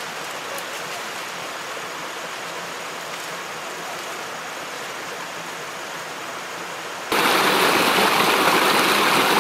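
Rushing river water, a steady noise that suddenly becomes much louder about seven seconds in.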